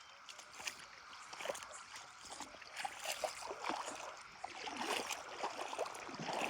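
Feet wading through a shallow river, with irregular splashes over the running water. The splashes come thicker and louder about halfway through.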